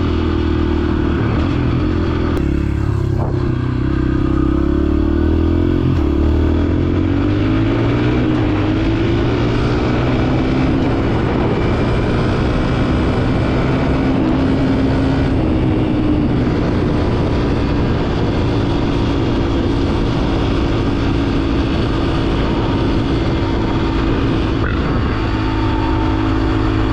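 Dirt bike engine running under way. Its pitch drops and climbs again a few seconds in, then holds steady while cruising.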